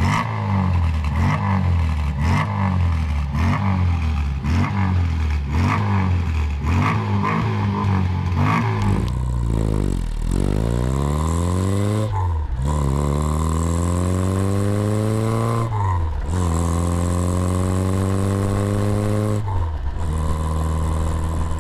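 MG Midget four-cylinder engine running with a pulsing note that rises and falls in a quick, regular rhythm. About nine seconds in, the engine accelerates hard through the gears: the pitch climbs three times, with a brief drop at each upshift, then the note settles.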